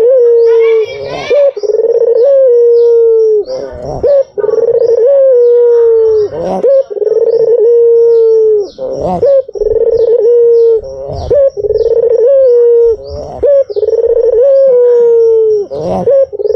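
White puter (Barbary/ringneck dove) cooing loudly: a steady run of long, low coo notes, each held about a second and sliding slightly down, repeated again and again with short breaks.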